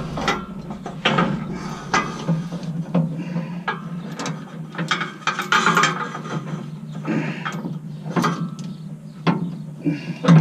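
Irregular ratcheting clicks and metal knocks as pulling rigging is looped and worked under the truck to free a seized gooseneck hitch ball, over a steady low hum.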